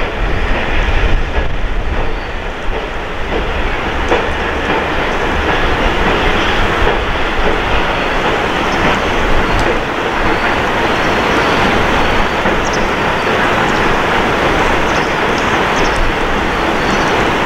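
Train running past on the rails: a loud, steady rumble of wheels on track, with a few faint short clicks in the second half.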